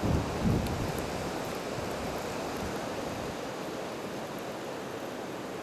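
Blizzard wind blowing steadily in a constant rushing hiss, with a couple of low gusts buffeting the microphone right at the start.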